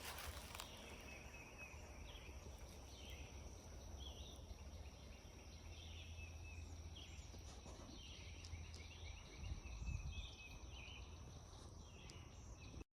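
Faint forest ambience: a steady high insect drone under repeated short bird chirps, with a low rumble beneath. It cuts off suddenly at the end.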